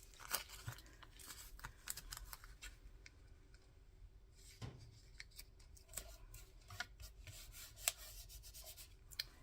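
Paper and vellum being handled on a craft table: scattered light clicks and rustles, faint throughout.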